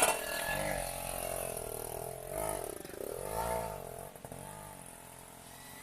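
Vehicle engine revving in repeated surges, its pitch rising and falling about four times and fading near the end, as the vehicle struggles to get moving while being pushed.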